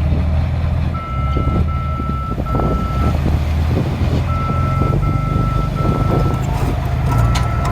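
Dump truck reversing: its backup alarm beeps in sets of three over the steady drone of the engine, with scattered knocks and rattles of soil and stone.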